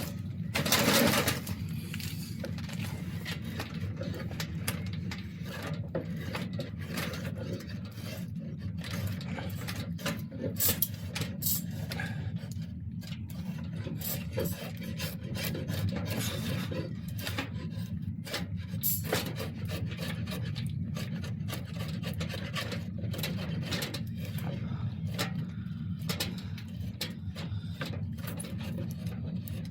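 Wood being rasped, tapering the thickness of an oak bow limb: a steady rough scraping with irregular sharper strokes.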